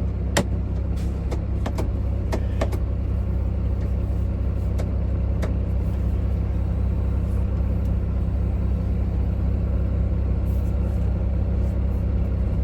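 Heavy truck's diesel engine idling steadily, a constant low hum, on freshly replaced fuel injectors. A few sharp clicks come in the first three seconds.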